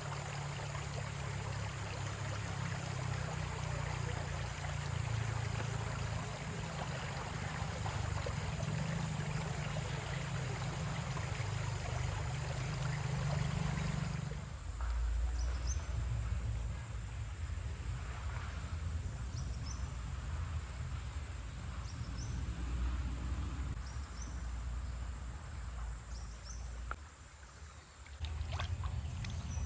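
Forest ambience by a stream: running water with a steady, high insect drone over it. About halfway through the mix changes abruptly to a quieter background with the insect drone and a few faint short chirps.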